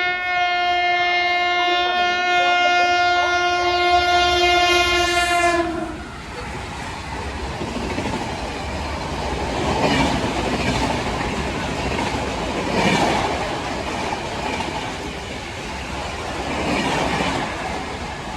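Indian Railways locomotive horn sounding one long steady blast for about six seconds, which then cuts off. A fast train rushes past with its wheels clattering on the track, the noise swelling and easing a few times.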